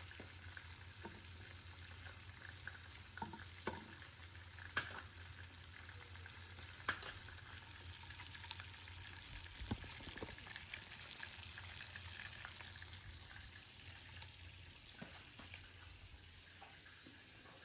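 Oil sizzling steadily in frying pans as turmeric-coated hard-boiled eggs and chicken drumsticks fry, with a metal spoon knocking against the pan a few times while oil is basted over the eggs. The sizzle grows fainter near the end.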